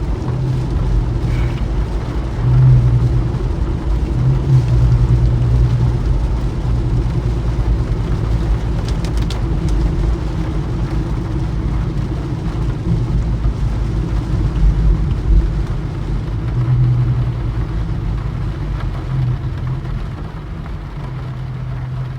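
Infiniti Q50 driving along: a steady low rumble of engine and road noise that swells a little a few times and eases slightly near the end.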